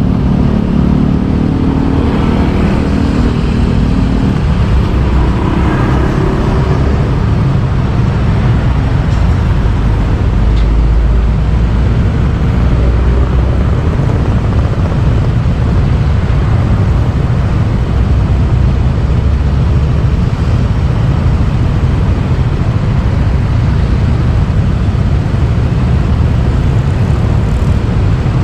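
Motorbike riding through town: steady engine and road noise with a heavy low rumble. An engine hum heard in the first few seconds fades out.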